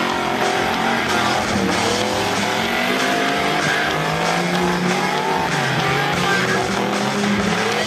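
Off-road 4x4 engines revving, their pitch rising and falling repeatedly over a steady noise, with music playing at the same time.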